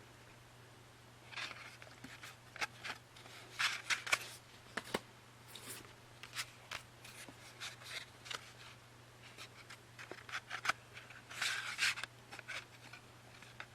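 Hands handling the box set's packaging and contents: irregular clicks, taps and short rustling rubs, over a steady low hum.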